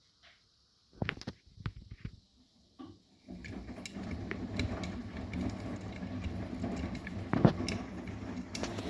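Arçelik 9120M front-loading washing machine: a few sharp clicks, then from about three seconds in a steady mechanical running with a low hum and many small clicks.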